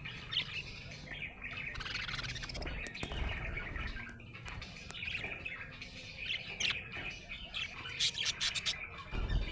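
Budgerigar chattering continuously: a warbling run of chirps and squeaks, with sharper high chirps breaking through and a quick run of clicky notes near the end.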